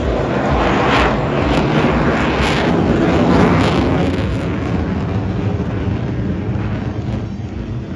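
Jet roar of an F-22A Raptor's twin Pratt & Whitney F119 turbofans as it passes the crowd, loud and rough with crackle, peaking in the first half and then slowly fading away.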